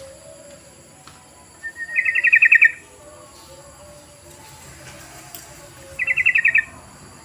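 Yellow-vented bulbul (trucukan) calling: two short bursts of fast, bubbling notes, about two seconds in and again about six seconds in.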